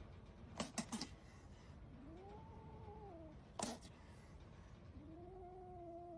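A cat gives two long, drawn-out meows that rise and then fall in pitch. There are three sharp clicks about half a second in and another click between the two meows.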